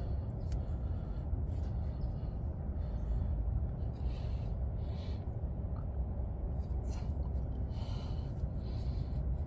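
A towel wiping spilled oil from around a freshly fitted oil filter under a truck, heard as faint, short rubbing sounds every few seconds over a steady low background rumble.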